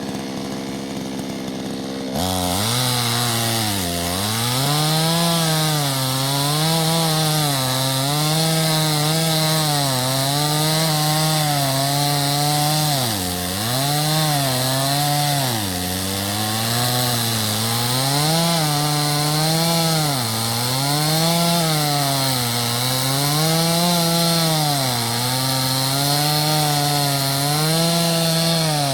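Two-stroke chainsaw ticking over, then throttled up about two seconds in and cutting wood, its engine pitch dipping and recovering every second or two under the load of the cut.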